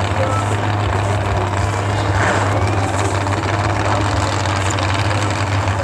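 Heavy truck engine running at a steady pitch, a loud low drone with no revving.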